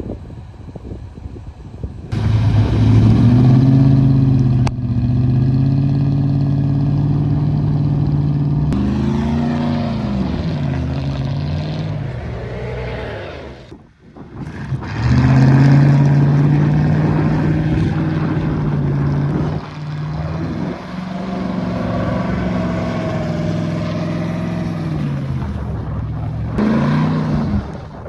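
Two-wheel-drive pickup truck engine revved hard and held at high revs while driving through mud, starting suddenly about two seconds in. The revs waver and sag, die away almost completely about halfway through, then climb and hold high again, easing and rising a few more times toward the end.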